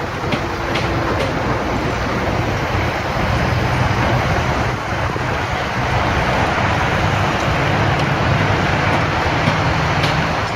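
Steady rumble of heavy vehicle engines and road traffic, with a low engine hum and a few faint clicks.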